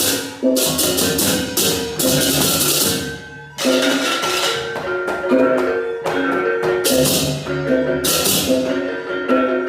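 Balinese baleganjur gamelan playing: crash cymbals clash in loud, repeated bursts over interlocking pitched gong-chime tones and drums. The ensemble breaks off briefly about three seconds in, then comes back in together.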